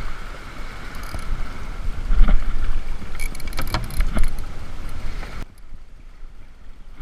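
Wind and water rushing around a small sailboat, with a few short knocks and rattles in the middle; the noise drops suddenly to a quieter hiss about five and a half seconds in.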